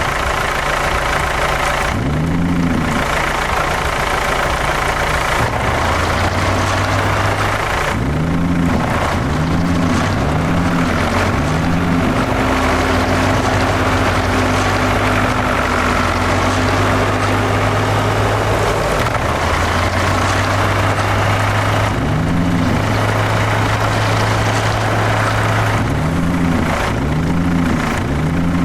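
Tractor engine running, with short rises in pitch from repeated revs.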